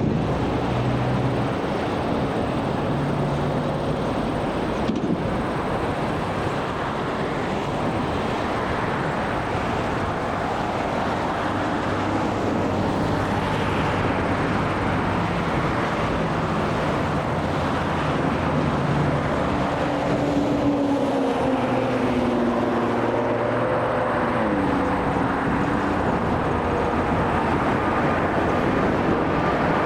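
Airbus A380-861 jet airliner taking off, its four Engine Alliance GP7270 turbofans at takeoff power making a steady jet noise, with faint tones sliding downward about two-thirds of the way through.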